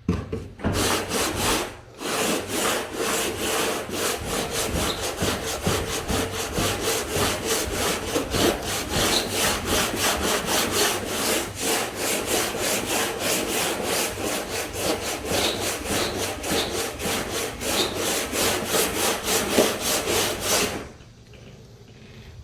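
A hand tool worked back and forth on wood in quick, even strokes, about three a second, with a short break early on. It stops abruptly near the end.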